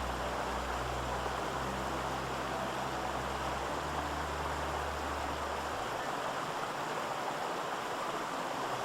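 Steady rushing of water in a fast mountain stream, an even hiss that does not change.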